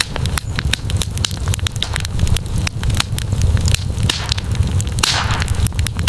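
Campfire burning with a steady low rumble and frequent sharp crackles and pops of burning wood, with a brief hiss about five seconds in.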